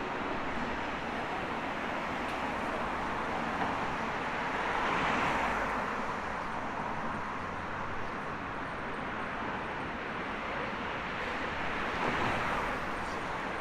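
City street traffic noise, with two vehicles passing close by: one about five seconds in and another near the end.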